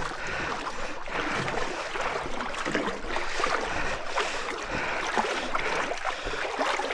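Water sloshing and splashing as someone wades through shallow, oily standing water, an irregular stream of small splashes.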